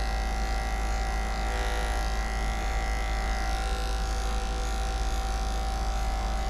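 Electric dog-grooming clippers running with a steady hum as they trim the fur on the back of a puppy's legs.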